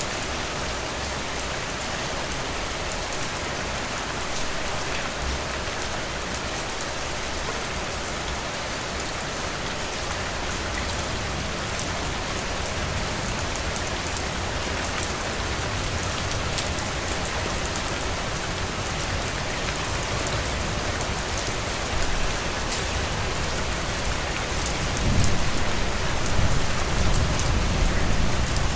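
Heavy rain falling steadily, a dense hiss with individual drops ticking through it. A low rumble swells in the last few seconds.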